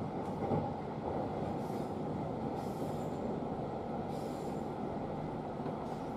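Running noise of an 811 series electric train, heard inside the front car: a steady rumble of wheels on the rails, with a few faint brief high hisses.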